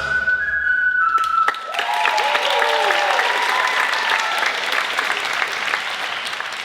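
The last held note of the music dies away, then an audience applauds, with a few voices calling out. The applause fades toward the end.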